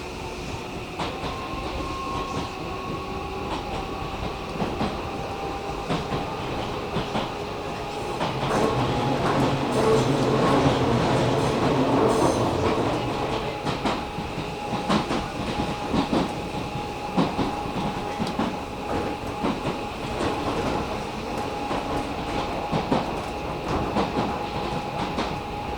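Hakone Tozan Railway train running, wheels clicking over the rail joints, with a steady whine throughout. The running noise grows louder for several seconds in the middle, then settles back.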